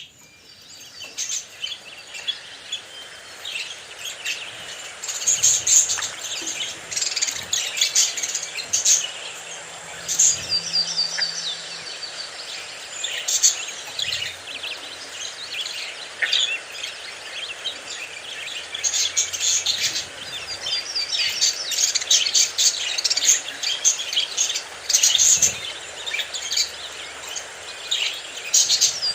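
A flock of budgerigars chirping and warbling continuously, many fast overlapping high chirps and chatter.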